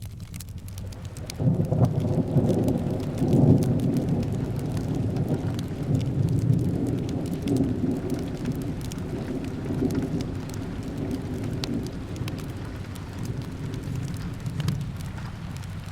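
Rolling thunder over steady rain: a low rumble comes in about a second and a half in, is loudest around three to four seconds, and slowly fades while the rain hiss carries on with scattered small ticks.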